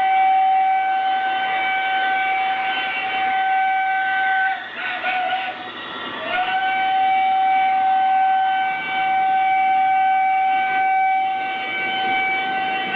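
Model train whistle blowing in two long held blasts, each sliding up into a steady pitch, with a short lower note between them about five seconds in, over the steady running noise of the train on the track.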